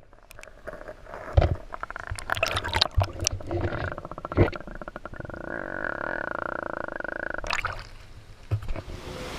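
Water gurgling and sloshing around the microphone, with a string of knocks and clicks over the first few seconds, then a steady hum for a couple of seconds before a few more knocks near the end.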